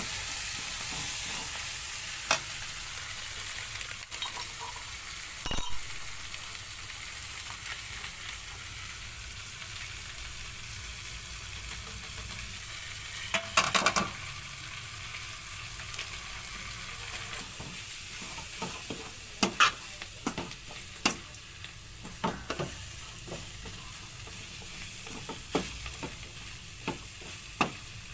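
Capsicum frying in oil in a pan, with a steady sizzle. Sharp knocks and scrapes of stirring against the pan come through it, a quick cluster about halfway through and more often in the second half.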